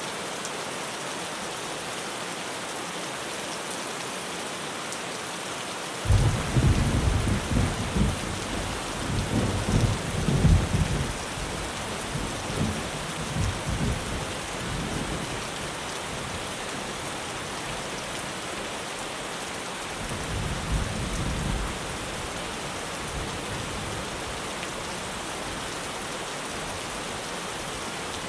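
Heavy rain drumming steadily on a tin roof. About six seconds in a loud thunderclap breaks and rumbles for several seconds, and a second, shorter roll of thunder comes a few seconds later.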